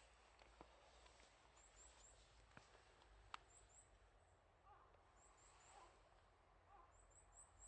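Near silence: faint outdoor hiss with a few soft clicks, and very faint high-pitched chirps in quick groups of three repeating every second or two.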